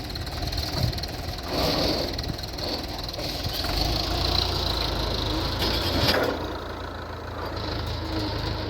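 Tractor engine running steadily with a low rumble, with brief louder noisy swells about two seconds and six seconds in.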